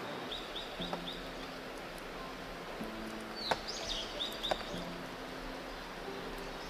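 A small bird calling: two runs of short, quick high chirps, about four in each, one at the start and one about halfway. Under them is a steady hiss, with a couple of sharp clicks in the middle.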